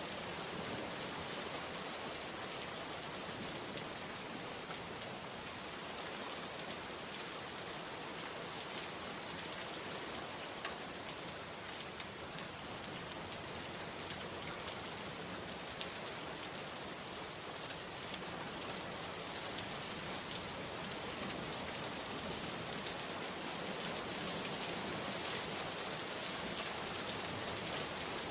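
Steady rain falling: a dense, even hiss of drops, with a few separate drop hits standing out now and then.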